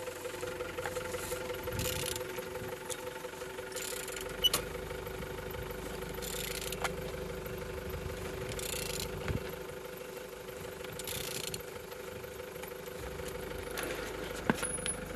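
An engine's rotating assembly being turned by hand, giving a brief hissing whir about every two to two and a half seconds with a few sharp clicks, over a steady low hum. It turns freely.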